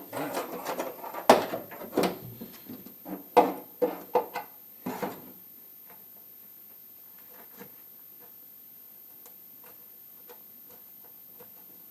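A run of clunks, knocks and rattles, as parts are handled and tried against a freshly drilled hole, for about five seconds; then faint scattered ticks over a low steady background.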